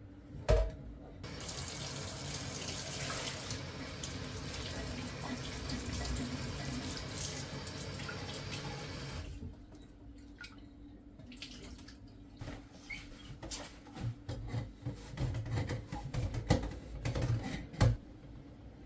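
A tap running steadily into a sink for about eight seconds, just after a sharp knock, then shut off abruptly. A series of short knocks and clinks follows, with one loud knock near the end.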